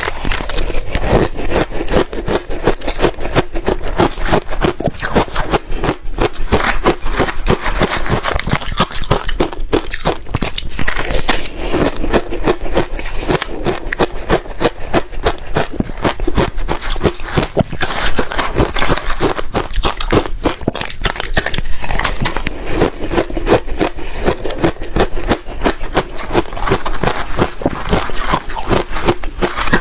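Ice being bitten and chewed, a dense run of loud crunches and crackles close to the microphone.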